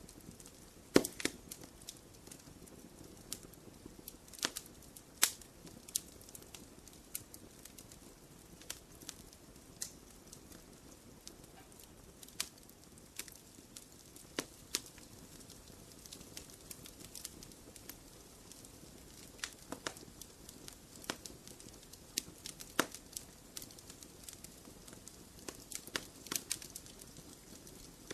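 Wood fire in a fireplace crackling: irregular sharp pops and snaps, a few louder than the rest, over a soft low hiss of the flames.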